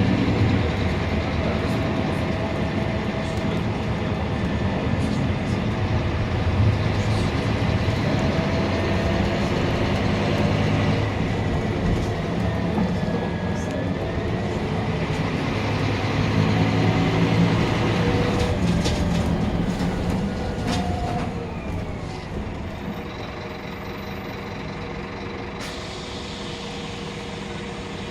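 Scania K310UB city bus running, heard from on board, its engine and drivetrain note rising and falling as it drives. About three quarters of the way through it grows quieter and settles into a steadier, lower running sound.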